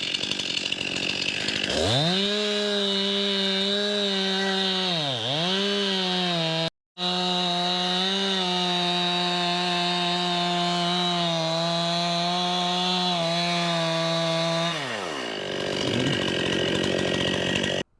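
Two-stroke chainsaw making the back cut through a white oak trunk. About two seconds in it revs up from idle and holds at full throttle under load, its pitch sagging once briefly as the bar bites. Near the end it drops back to idle.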